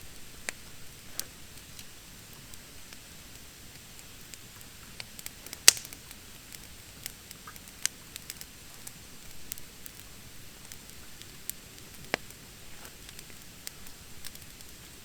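Wood fire of damp, freshly cut thin branches burning, crackling with scattered sharp pops over a steady hiss. The loudest pop comes just under six seconds in.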